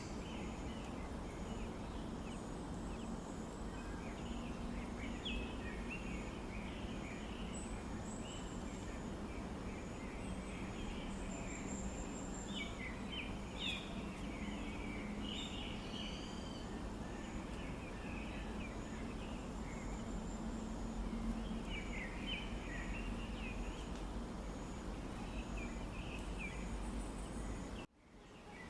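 Scattered short bird chirps and calls over a steady outdoor background hiss; the sound drops out suddenly and briefly near the end.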